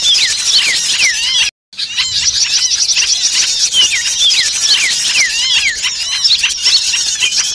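Dense chorus of many small birds calling at once, a mix of rapid repeated chirps and downward-sliding whistles: a bird-luring recording of agitated, noisy small birds. The sound cuts out completely for a moment about one and a half seconds in, then resumes.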